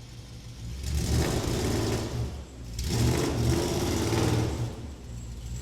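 S65 4.0-litre V8 in a BMW 1M rally car, idling and then revved hard twice, each rev held about a second and a half before dropping back to idle.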